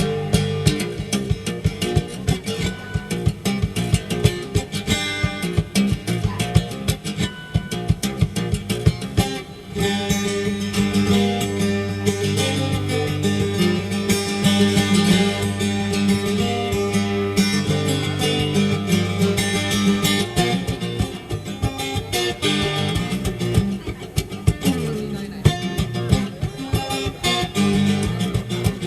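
Solo acoustic guitar playing percussive fingerstyle: quick taps and slaps on the body and strings mixed with picked notes. About ten seconds in, it opens into fuller ringing chords over a steady bass line.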